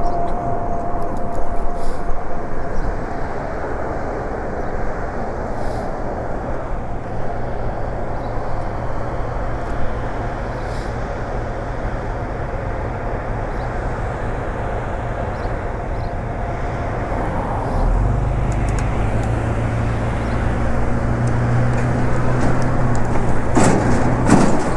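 Wind and road noise rushing over the camera microphone while riding an e-bike in traffic, with a steady low engine hum from nearby vehicles that steps up and gets louder about three-quarters of the way in.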